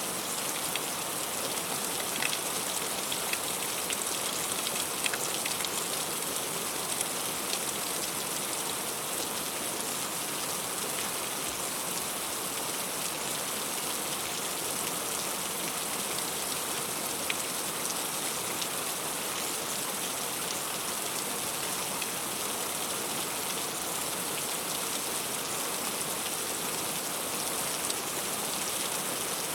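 Heavy rain falling steadily on leaves and fruit, with scattered individual drop taps through the dense hiss.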